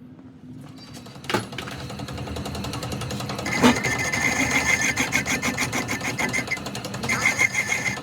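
A small machine or power tool running with a fast, even chatter of about five pulses a second, after a couple of knocks. It stops briefly near the end, then starts again.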